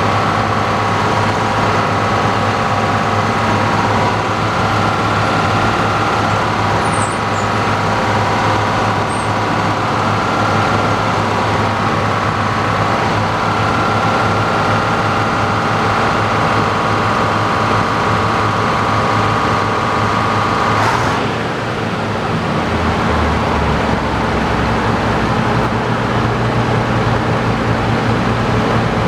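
Sawmill running under power as its saw works through a large log, a loud steady machine noise with a whine over it. About three-quarters of the way through the whine stops with a sharp click and the mill runs on with a lower hum.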